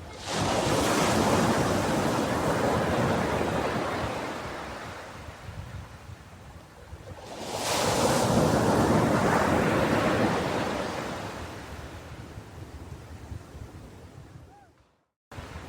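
Ocean waves breaking on a shore: two waves surge in, one at the start and one about seven seconds later, each washing out and fading slowly. Near the end the sound cuts out to silence for a moment.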